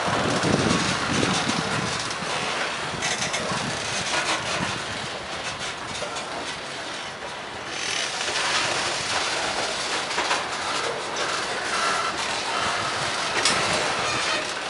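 Freight train of covered hopper cars rolling past close by: a steady rumble and rattle of steel wheels on the rails, with occasional sharp clacks.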